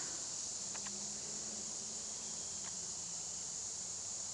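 Steady high-pitched insect chorus, with two faint clicks about a second in and near three seconds in.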